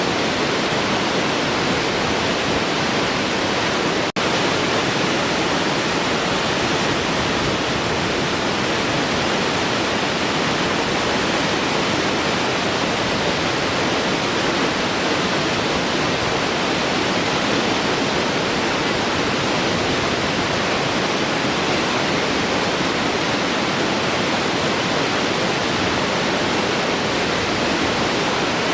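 Large waterfall, a steady, even rush of falling water, with a very brief break in the sound about four seconds in.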